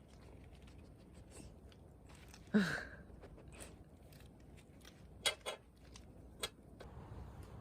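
Small dog eating, with a few crisp crunches of food. About two and a half seconds in there is one brief, louder vocal sound that falls in pitch.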